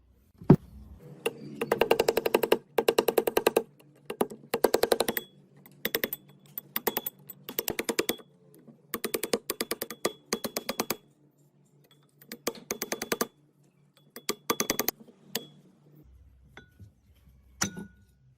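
Rapid mechanical clicking in about a dozen short bursts of a second or less, each a quick run of even clicks, with a faint hum underneath.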